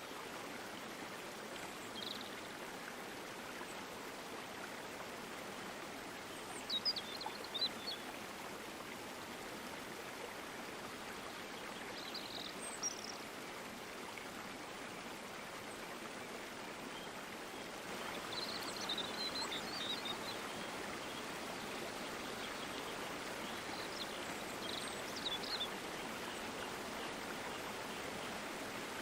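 Steady rush of a running stream, a little louder about two-thirds of the way in. Short high bird chirps come every few seconds over the water.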